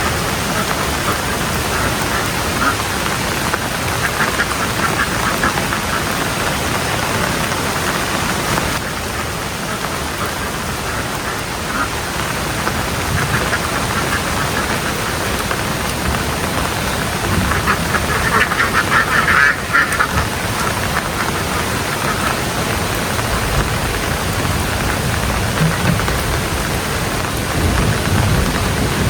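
Ducks quacking in bursts over steady rain, the loudest run of quacks a little past halfway.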